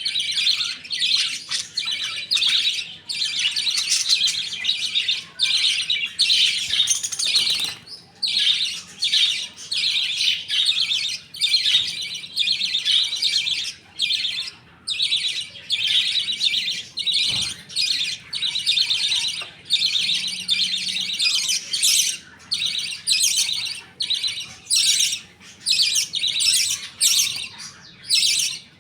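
A flock of budgerigars chattering and chirping continuously, many high warbling calls overlapping with only brief gaps.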